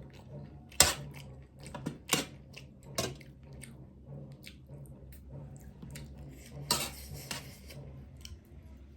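Dishes and tableware clinking and tapping during a meal, with sharp knocks about one, two and three seconds in and a short stretch of scraping near the end.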